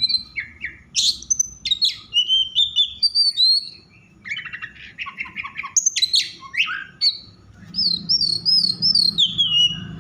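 Oriental magpie-robin singing in an agitated, heated state: a fast, varied run of loud whistles, slurred and rising notes and rapid chirps, with a brief lull about four seconds in.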